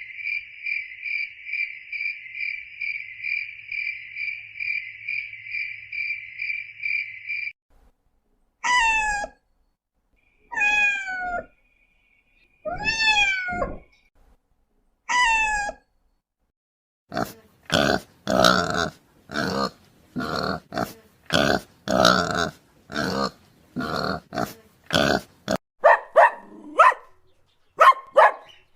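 A sequence of animal sounds. First a steady, high, pulsing trill like a cricket, lasting about seven seconds. Then a cat meows four times, each call falling in pitch, followed by a quick run of dog barks and yips.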